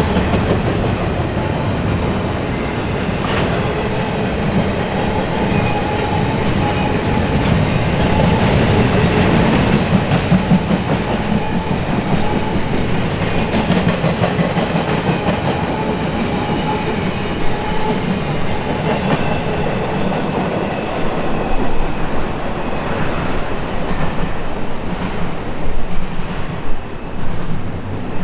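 Freight cars of an intermodal train rolling past: double-stack container well cars and then autorack cars, a steady rumble with their wheels clattering over the rails. The sound thins near the end as the last cars go by.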